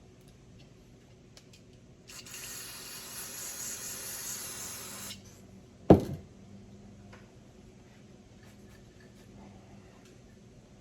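A steady, high hiss of pressurised spray lasting about three seconds, followed about a second later by a single sharp knock, the loudest sound.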